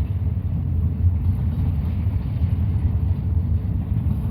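Freight train's intermodal well cars rolling past, a steady low rumble of steel wheels on rail.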